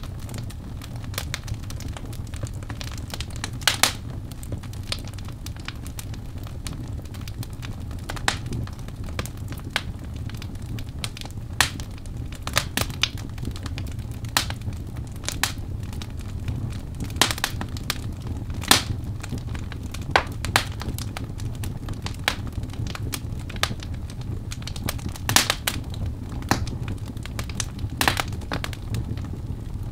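Birch log fire crackling in a fireplace: irregular sharp pops and snaps, a few each second, over a steady low rumble of the flames.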